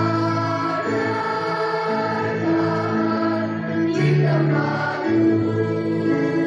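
Junior high school choir singing, holding long notes that change pitch about once a second.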